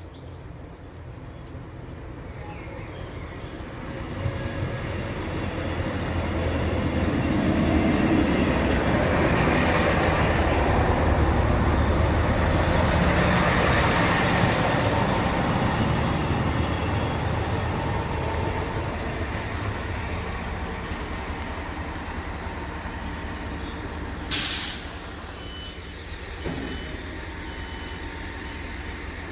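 A train passing: its rumble builds up, is loudest in the middle and slowly fades. A short sharp hiss comes near the end.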